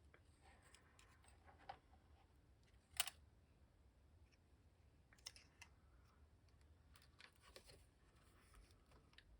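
Near silence with a few faint clicks and rustles of paper being handled and pressed into place, the sharpest about three seconds in.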